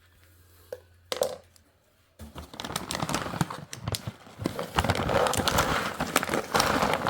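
Crinkling and rattling handling noise, dense with sharp clicks, starting about two seconds in after two single knocks.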